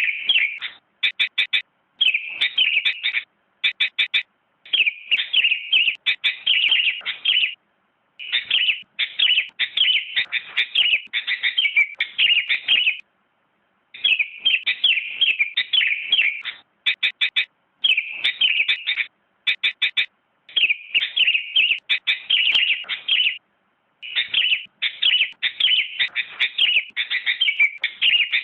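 Sooty-headed bulbul (kutilang) singing: rapid runs of chirpy notes in phrases of one to a few seconds, separated by short pauses.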